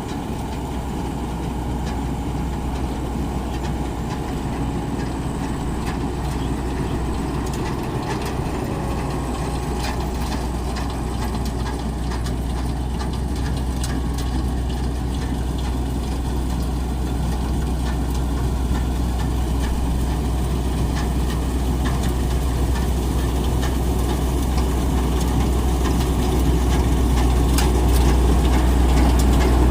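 Engine of a rice harvesting machine running steadily with a heavy low drone, growing gradually louder over the stretch.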